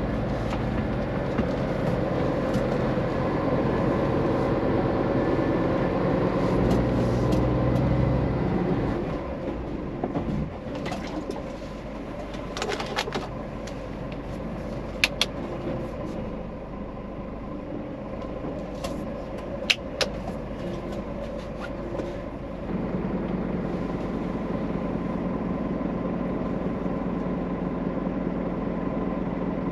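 Scania truck's diesel engine running steadily. About nine seconds in it drops much quieter for a stretch with a few sharp clicks, then the steady hum comes back near the end.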